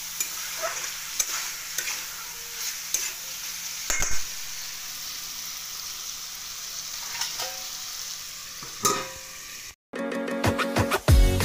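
Chicken masala sizzling as it fries in a kadai, with a spatula now and then scraping and knocking against the pan. Near the end the sizzle cuts off and music with a beat starts.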